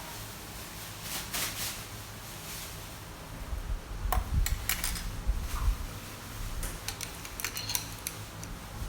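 Steel nippers clicking and clinking as they are handled, in a few short clusters, over a low steady hum.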